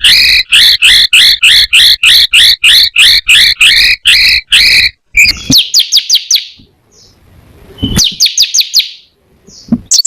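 Small songbird singing: a fast string of repeated two-part whistled notes, about five a second, that gives way about five seconds in to short, high, rapid chattering trills with pauses between them.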